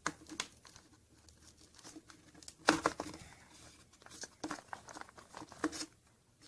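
Foil wrapper of a Kinder Surprise egg crinkling and tearing as it is unwrapped, with irregular crackles and a louder rustle about two and a half seconds in.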